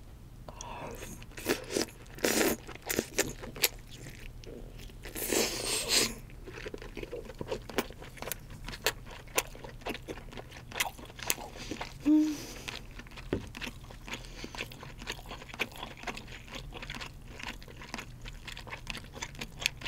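Close-up eating sounds of boiled king crab leg meat being bitten off the shell and chewed, with wet mouth clicks throughout. A few louder bursts come in the first six seconds, and a short hum about twelve seconds in.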